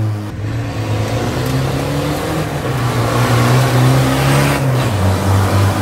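Land Rover Defender off-road race car's turbodiesel engine accelerating hard from a standing start on gravel. The engine pitch rises for about four seconds, then drops at a gear change and climbs again, over a steady hiss.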